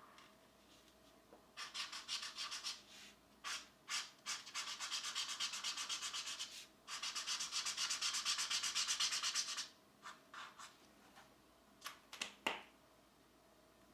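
Colored pencil shading on coloring-book paper: quick back-and-forth strokes in three long runs with short pauses between them, then a few separate strokes near the end.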